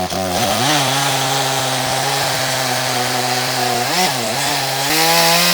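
A ported Echo CS-310 two-stroke chainsaw running under load in a cut. Its engine note sags briefly twice and climbs higher near the end.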